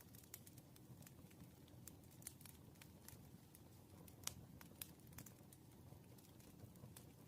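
Faint, irregular clicks and taps of a pen writing on paper at a desk, over a low steady room hum, with one sharper tick about four seconds in.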